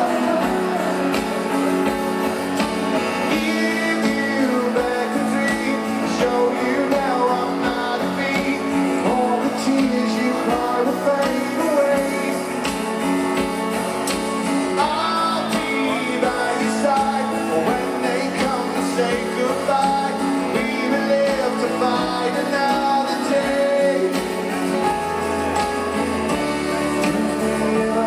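Live rock band playing a passage with guitars to the fore and no clear words sung.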